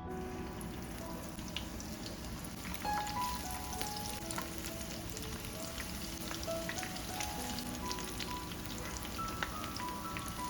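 Food frying in hot oil in a pan, a steady dense sizzle with small crackles and pops, under soft background music with held melodic notes.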